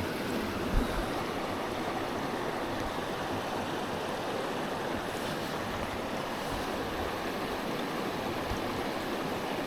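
Small mountain stream running: a steady rush of flowing water.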